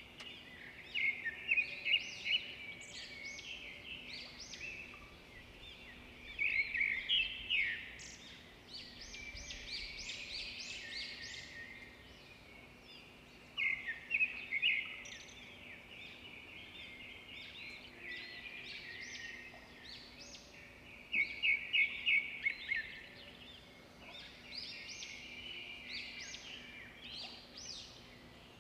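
Small birds chirping in quick runs of high notes, coming in bursts every few seconds, over a faint steady hum.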